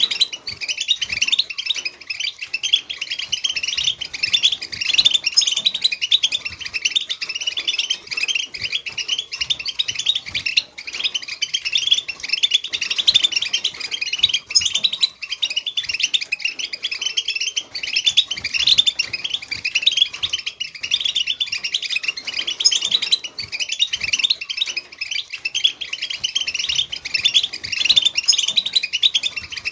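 A group of European goldfinches twittering and chirping together in a dense, unbroken chorus of quick, high, overlapping notes. This is the excited group chatter that keepers play to stimulate goldfinches into song.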